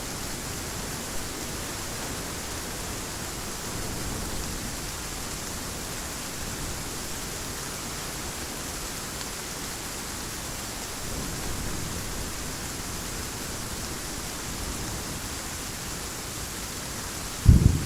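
Heavy rain falling as a steady, even hiss. Right at the end a loud, deep thunder rumble breaks in suddenly.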